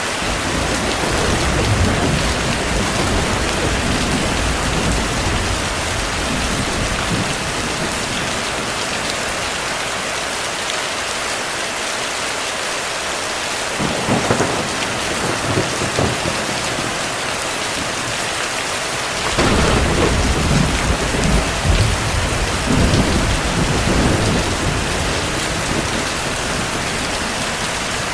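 Steady heavy rain with rolls of distant thunder: a long low rumble over the first several seconds, a short one near the middle, and another long rumble about two-thirds of the way in.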